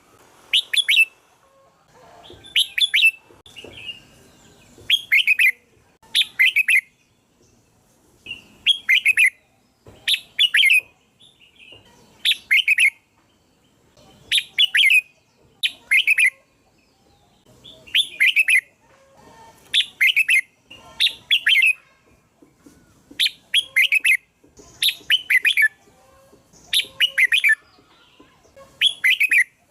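Red-whiskered bulbul calling: short, loud phrases of a few quick chirping notes, repeated every second or two, as a call recording used to lure the bird.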